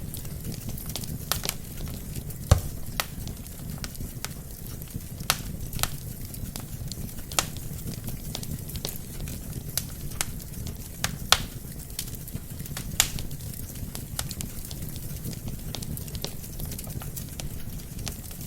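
Burning wood logs in a fireplace crackling: a steady low rumble of the fire under frequent, irregular sharp pops and snaps, the loudest pop about two and a half seconds in.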